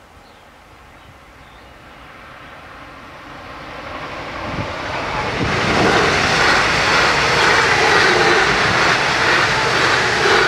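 WestfalenBahn electric multiple-unit passenger train (Stadler FLIRT) approaching and passing. Its rush of wheels on rails swells from faint to loud over the first six seconds, then holds steady and loud as the cars go by.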